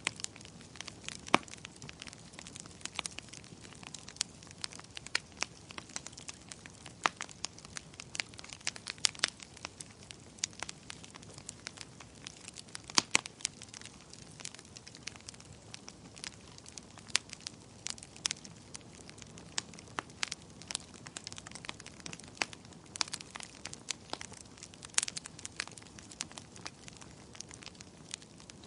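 Wood fire crackling, with frequent irregular sharp pops and snaps over a faint steady hiss.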